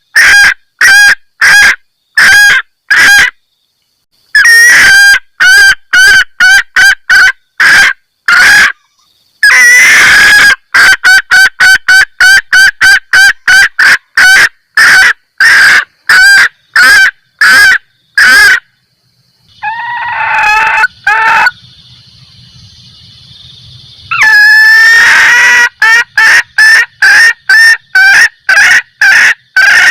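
Junglefowl hen giving rapid 'kekkek' calls, the female's mating call used as a lure to draw in males, in long runs of short sharp notes about two to three a second with brief pauses. Around the middle the runs stop for a few seconds, leaving a quieter stretch with a low hum and a few softer calls.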